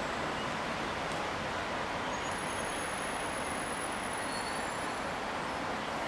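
MTR Kwun Tong Line C-train, a CNR Changchun-built electric multiple unit, rolling slowly into an elevated station: a steady rumble and hiss of running gear. About two seconds in, faint high-pitched wheel squeal joins it for a few seconds.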